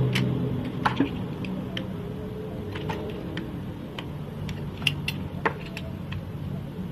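Slime being squeezed and poked by hand, giving scattered small sharp clicks and pops over a low steady hum.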